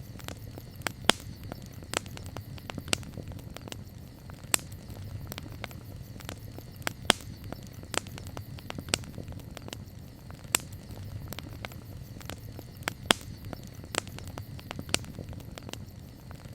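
Campfire crackling: sharp, irregular pops of burning wood, roughly one a second, over a steady low rumble of the fire.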